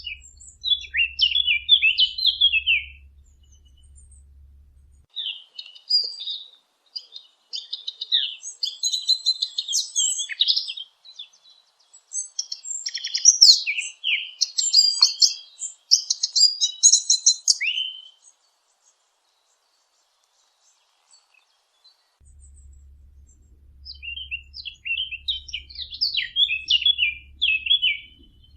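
Small birds chirping and twittering in quick, high-pitched phrases. The song breaks off for about four seconds in the later part, then resumes. A faint low hum lies under the first few seconds and again after the break.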